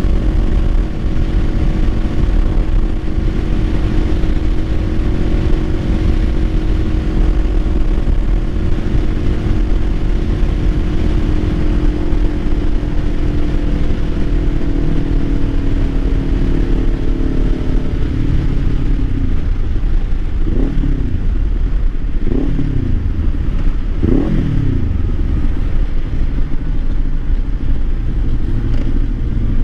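Kawasaki Ninja 500 parallel-twin engine running under way with heavy wind rumble, its note easing slowly downward. About two-thirds in, the revs rise and fall quickly three times, then settle to a lower steady note near the end.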